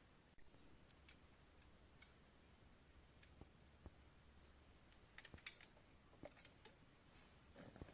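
Near silence with faint, scattered small clicks and taps, a few of them bunched together about five and a half seconds in.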